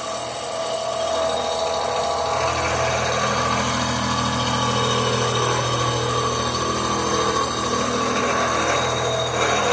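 An electric power tool or shop machine running steadily, with a low hum and a high-pitched whine.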